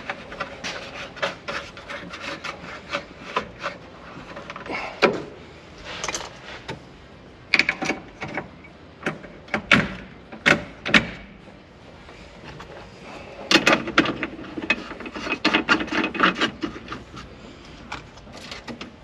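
Hand work on a truck dashboard: parts and small tools being handled and fitted, giving scattered clicks, knocks and rubbing, with a quicker run of clicks about two-thirds of the way through.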